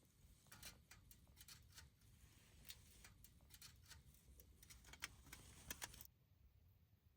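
Faint, irregular light clicks and taps, like small parts being handled and set down during the titanium wood-stove setup. They stop suddenly about six seconds in.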